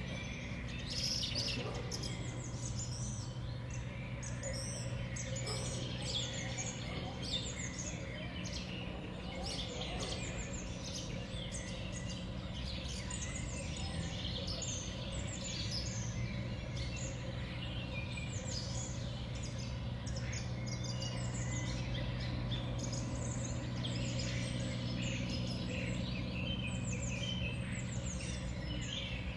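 Small songbirds at a winter feeder chirping and calling, many short high calls overlapping throughout, over a low steady hum.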